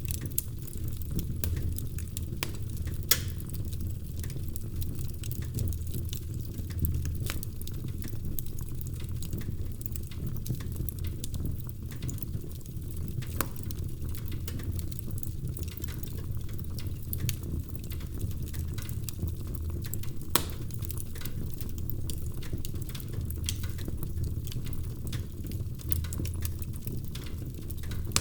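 Wood fire crackling in a fireplace: a steady low rumble of flames with irregular sharp pops and snaps, a few of them louder than the rest.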